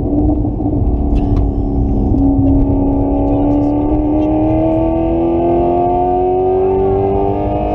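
Car engine pulling under sustained acceleration, its note rising steadily for about five seconds over heavy low rumble, then breaking off near the end.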